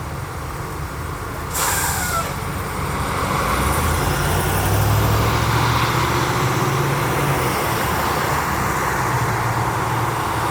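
Heavy truck's diesel engine pulling away, with a short air-brake hiss about a second and a half in. The engine gets louder from about three seconds in.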